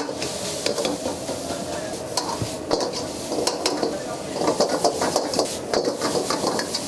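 Minced chicken sizzling as it is stir-fried in a hot pan, a metal utensil scraping and clacking against the pan over and over.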